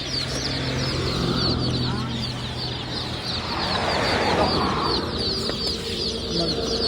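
A crowd of baby chicks peeping continuously, many short high chirps overlapping.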